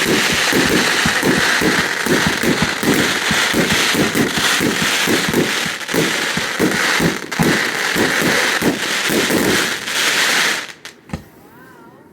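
Fireworks display: a dense, rapid barrage of bangs and crackling that cuts off suddenly near the end, followed by a couple of single pops.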